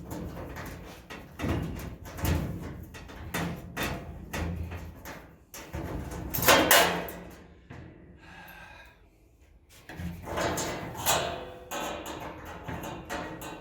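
Irregular knocks, clunks and clatters of parts being handled and set down, with a louder clang about six and a half seconds in and a short lull in the middle.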